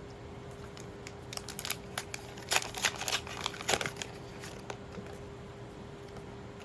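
Foil trading-card booster pack wrapper crinkling and crackling as it is handled and torn open, in a run of sharp crackles lasting about three seconds.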